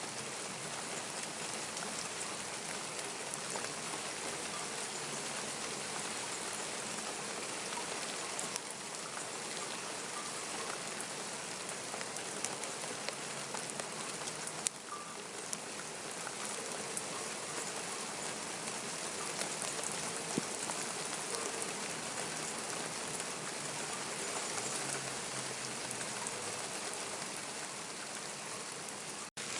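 Steady rain falling, an even hiss of drops, briefly cutting out for a moment near the end.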